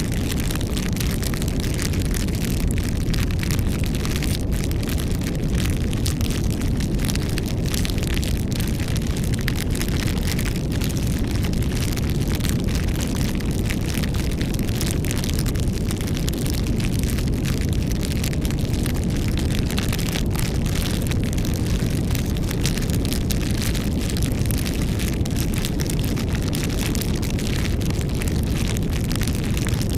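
Wood fire burning: a steady low rumble of flames with frequent small crackles and pops.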